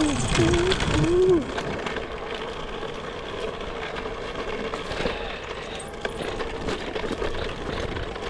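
Electric dirt bike motor whining at a steady pitch, with the rattle and rush of riding over a rough trail. A few short vocal sounds in the first second or so.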